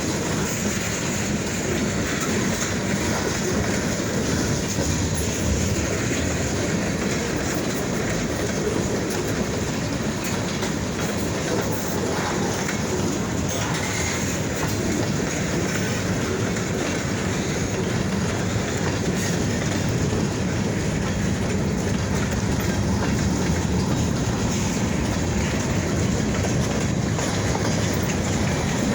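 Freight train cars rolling past at close range: a steady rumble of steel wheels on rail with clacking over the rail joints.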